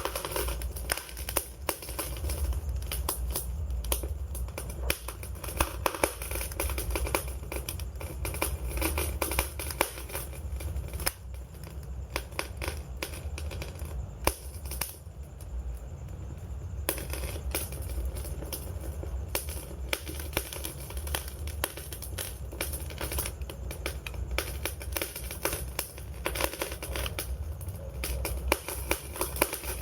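Wood fire crackling, with many irregular sharp pops and snaps over a low steady rumble of the flames; the crackling thins out briefly about halfway through.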